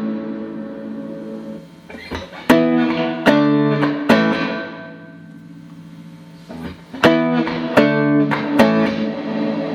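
Clean electric guitar played through a Boss RV-6 reverb pedal into Roland JC-120 amps. Three chords are struck about a second apart, then left to ring and fade in the reverb, and three more chords follow the same way near the end.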